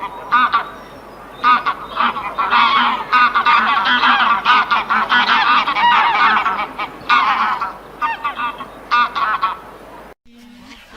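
A flock of birds calling all together, many loud overlapping calls that swell after the first second or so and break off abruptly near the end.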